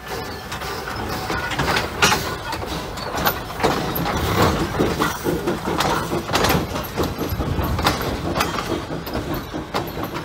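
A steam-hauled passenger train passing close by: the small steam locomotive goes by first, then its passenger coaches roll past, with the wheels clattering and knocking irregularly over the track.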